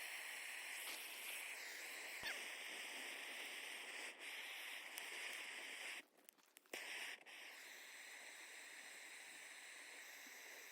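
Faint steady outdoor background hiss, strongest in the high range, with a single click about two seconds in and a brief dropout about six seconds in.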